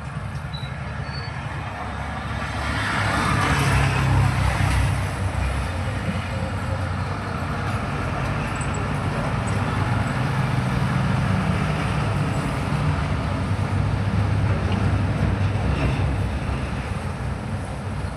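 Steady low rumble of road traffic, swelling as a vehicle goes by a few seconds in.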